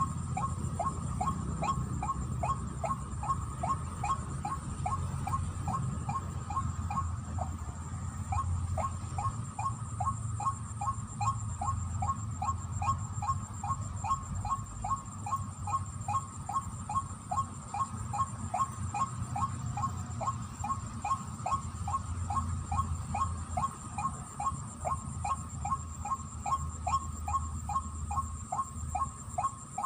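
White-breasted waterhen (ruak-ruak) calls: a continuous run of short falling notes, about three a second, over a low rumble.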